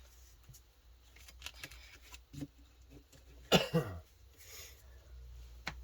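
Quiet handling of trading cards, with faint scattered clicks and rustles, and a short cough about three and a half seconds in.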